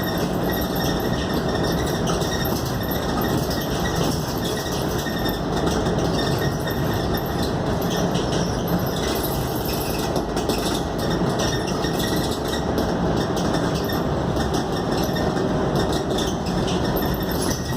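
Scania K280UD double-decker bus under way, heard from inside the cabin: its nine-litre five-cylinder diesel engine and road noise run steadily, with light rattles and clinks of the bodywork throughout.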